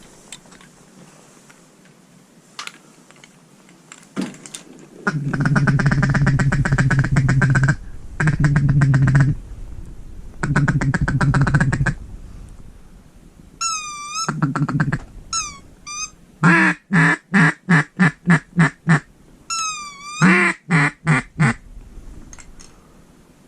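Duck calls blown close by to lure incoming ducks: three long, raspy, rapid chattering runs, then short wavering whistle notes, then a string of about nine separate quacks and a shorter string of about five.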